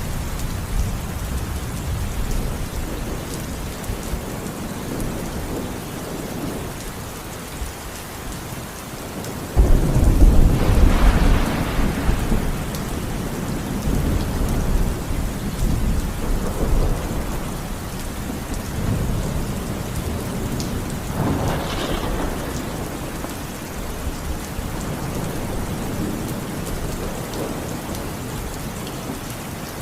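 Steady rain falling, with thunder rumbling low underneath. About ten seconds in a sudden thunderclap breaks into a loud rolling rumble lasting a few seconds, and a second, smaller crack of thunder comes about twenty-one seconds in.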